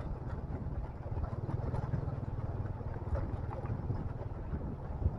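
Motorcycle engine running steadily while riding, a low, rapid pulsing with scattered small clicks and rattles over it.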